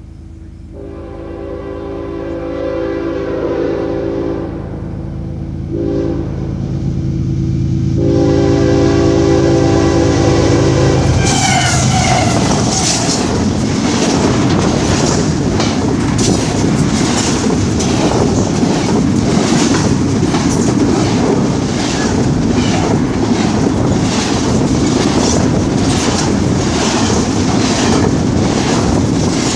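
Locomotive horn sounding the grade-crossing signal, long, long, short, long, over the rising rumble of an approaching train. About eleven seconds in the train passes close by, with loud steady rumbling and a rapid clatter of wheels over the rail joints.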